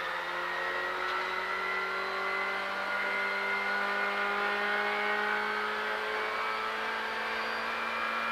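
Ford Fiesta R5 rally car's turbocharged 1.6-litre four-cylinder engine pulling hard in a high gear, heard from inside the cabin. Its pitch climbs slowly and steadily as the car accelerates flat out.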